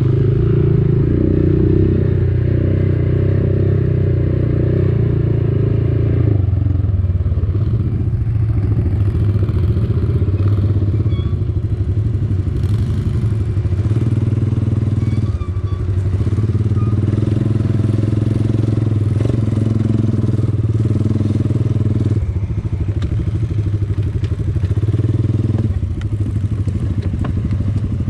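ATV (quad bike) engine running steadily under way, with the throttle and engine note changing several times.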